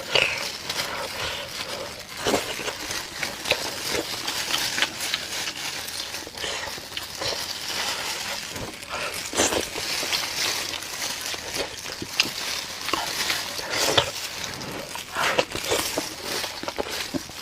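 Close-up mouth sounds of eating saucy braised meat: wet chewing, smacking and slurping, with irregular clicks throughout.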